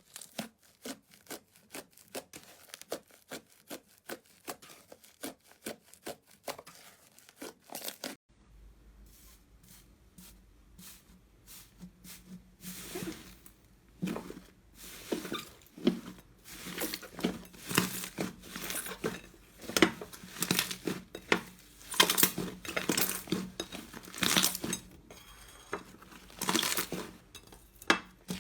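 Slime being pressed and squeezed by hand, giving rapid sticky crackling and popping clicks. It goes quieter just after eight seconds in, then the crackles return in louder clusters.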